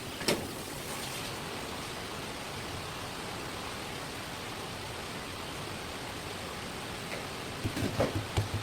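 Steady even hiss with one sharp click about a third of a second in and a quick run of knocks near the end, typical of a knife and utensils knocking on a cutting board while a fish is being prepared.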